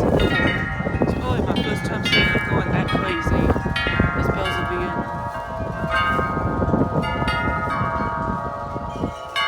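Tubular wind chimes going crazy in strong gusting wind: many tubes struck again and again, their tones ringing and overlapping. Wind buffets the microphone with a deep rumble throughout.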